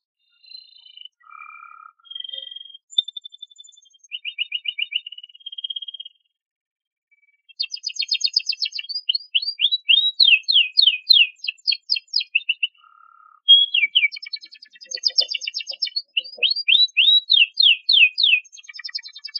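Domestic canary singing a varied song of short phrases and rapid trills. A pause of about a second comes around a third of the way in, then a long run of fast, rolling trills of quickly repeated sweeping notes.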